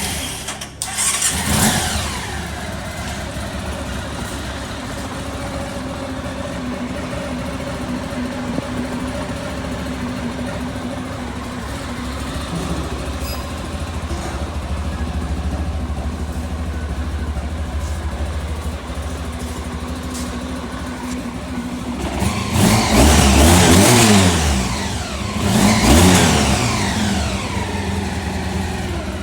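Honda ST1100's liquid-cooled V4 engine idling steadily, with a short surge about a second in. It is revved twice near the end, the pitch rising and falling each time, then drops back to idle.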